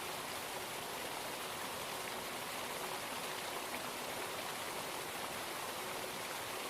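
Steady rush of a waterfall's falling water, an even hiss that does not change.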